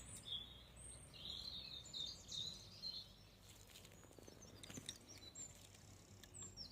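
Faint birds chirping in the background, in quick high-pitched phrases, with a few soft clicks in the middle.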